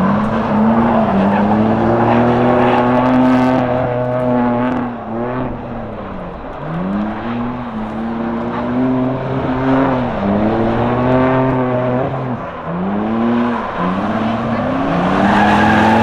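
Drift car engine revving up and down over and over as it works through a drift run, the pitch swooping up and falling back several times.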